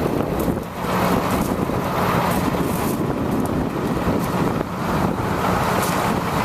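2002 International truck's engine running steadily, with wind buffeting the microphone.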